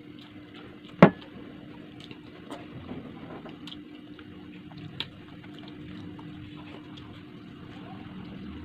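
Close-up eating sounds: someone chewing a mouthful of rice and milkfish eaten by hand, with scattered faint mouth clicks. A single sharp knock about a second in, and a smaller click about five seconds in, over a steady low hum.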